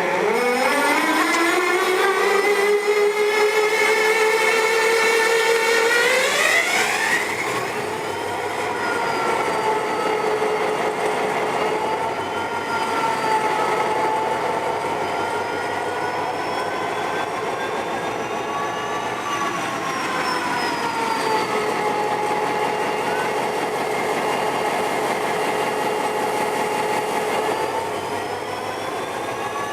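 GT22 diesel-electric locomotive A911 starting up: its engine comes up to speed with a whine that rises over the first few seconds, then climbs sharply around six seconds in. It then runs on with the whine drifting gently up and down in pitch.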